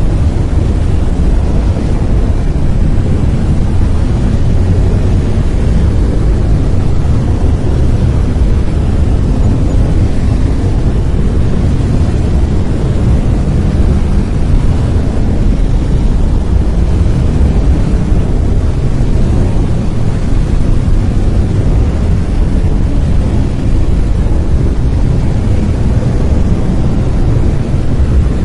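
Synthetic brown noise: a loud, steady, deep rumbling hiss with most of its energy in the low end, unchanging throughout.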